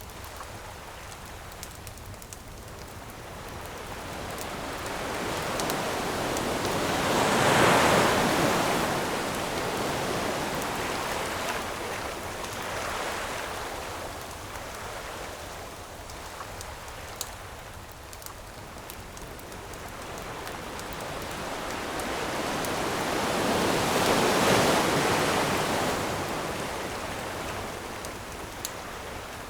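Ocean waves washing onto a beach: two large waves, each swelling up over several seconds, breaking and slowly fading, about sixteen seconds apart. A wood campfire crackles throughout with small scattered pops.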